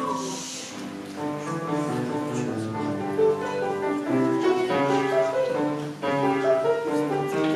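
Piano being played: a run of short melody notes over lower notes, moving along without a break.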